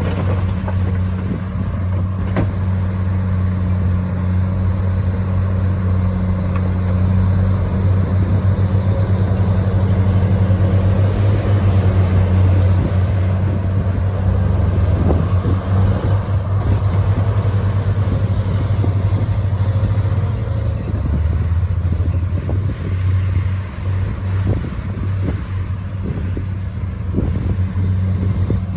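Komatsu bulldozer's diesel engine running at a steady pitch, with occasional short clanks over it.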